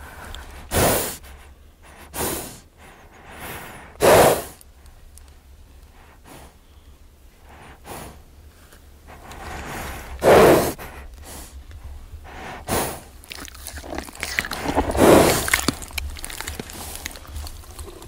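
A horse snorting, blowing hard breaths through its nostrils in a string of loud bursts at uneven intervals, the longest near the end, over a steady low hum.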